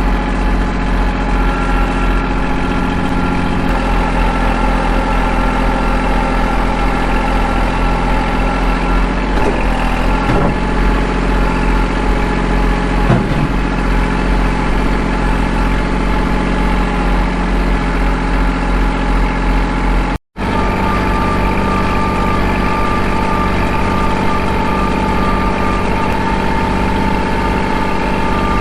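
Kubota L2501 tractor's three-cylinder diesel engine running steadily. The sound cuts out for an instant about two-thirds of the way through, then carries on with a slightly changed pitch.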